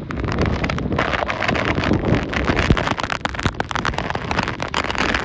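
Hurricane wind and rain buffeting the microphone: a loud, dense rush with irregular gusty crackling throughout.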